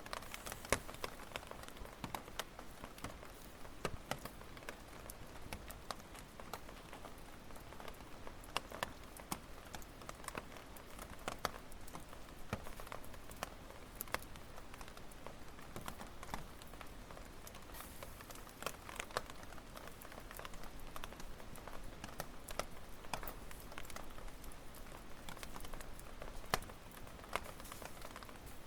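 Firewood burning in a campfire, crackling and popping irregularly over a low steady hiss of the flames.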